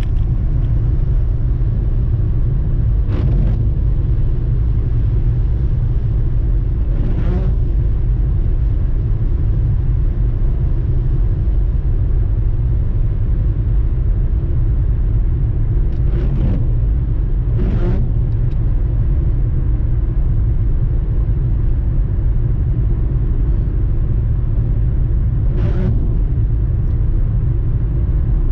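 Steady low rumble of a car driving, with road and engine noise heard from inside the cabin. A few brief swishes come and go over it.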